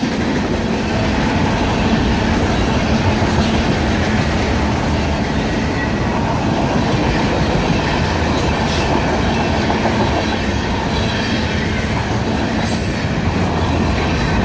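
A train's railroad cars rolling past close by, a steady loud rumble and rattle of wheels on the rails.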